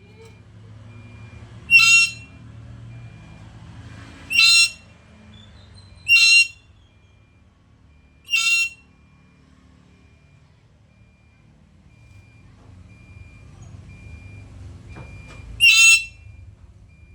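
Black-capped lory giving five short, loud calls, the first four a couple of seconds apart and the last after a longer pause near the end.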